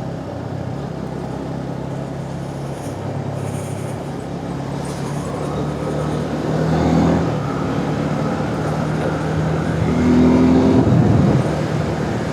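Suzuki Gixxer 250 single-cylinder motorcycle engine running while riding, with wind noise on a helmet-mounted microphone. The engine note shifts a few times and grows louder about seven seconds in and again near the end, as the throttle opens.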